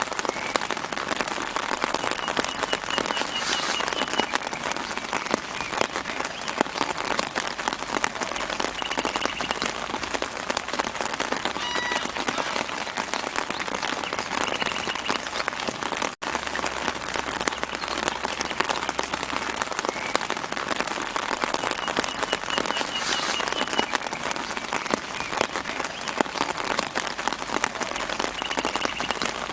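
Steady gentle rain falling on leaves and ground, a dense patter of drops, with faint short bird trills a few times. The sound drops out for an instant about halfway through.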